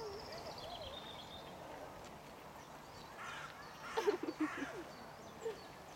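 Outdoor animal calls: a high, falling chirp near the start, then a short loud burst of harsh calls about three to four seconds in.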